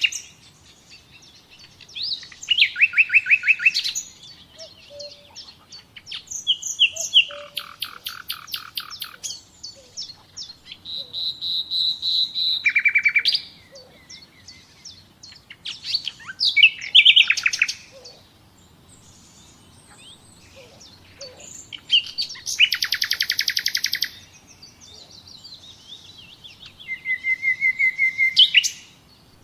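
Songbirds singing: short phrases of fast trills and chirps, each a second or two long, coming every few seconds with quiet gaps between.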